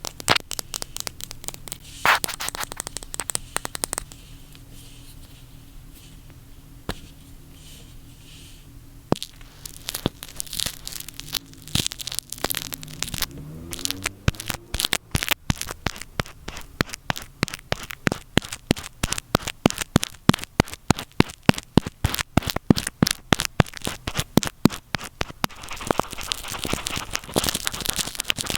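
Earphone microphone being scratched, rubbed and tapped up close, giving crackly scratching and sharp taps. There is a quieter lull a few seconds in, then a fast run of taps at about three to four a second, and denser rubbing near the end.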